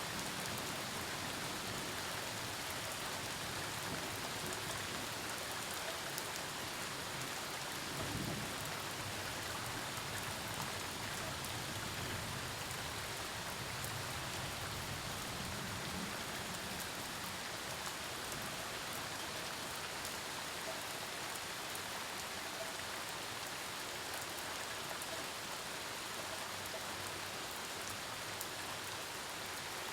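Steady heavy rain falling on surfaces during a thunderstorm. A brief low thud of thunder comes about eight seconds in, followed by a low rumble that lasts several seconds around the middle.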